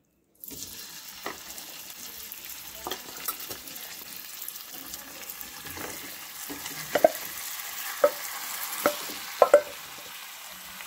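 Marinated chicken frying in hot oil in a nonstick pan: a steady sizzle that starts suddenly about half a second in, with sharp taps and scrapes of a stirring utensil against the pan every second or so.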